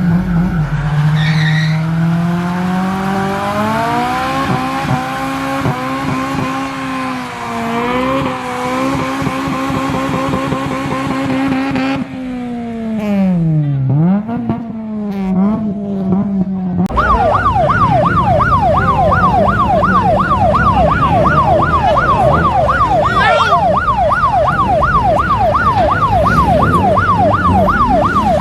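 A car engine under acceleration, its pitch climbing and holding, then dropping and rising again about twelve to seventeen seconds in. From about seventeen seconds, a police siren on a rapid yelp, wailing up and down without a break.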